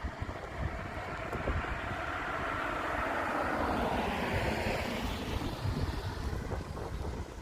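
A passing vehicle: its noise swells over a few seconds and then fades, over a low wind rumble on the microphone.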